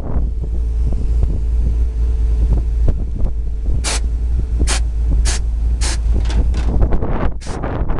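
Wind buffeting the microphone: a steady low rumble, with a series of short hissing bursts about every half second from midway on.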